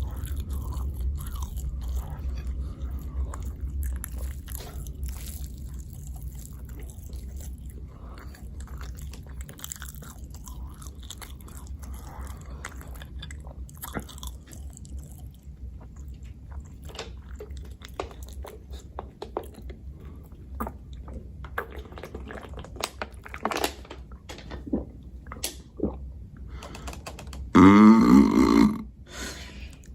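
Close-miked chewing and biting of food, with scattered crunchy clicks over a low hum. Near the end comes a loud throat sound with a pitch, lasting about a second and a half.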